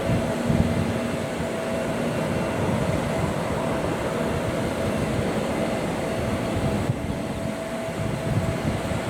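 Jet aircraft engines running at the airfield: a steady roar with a faint high whine held over it.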